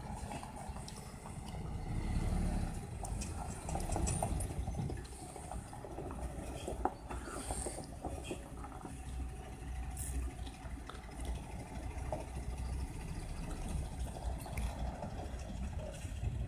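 Truck engine running steadily with a low rumble. It swells a little about two and four seconds in, with a few light clicks and knocks.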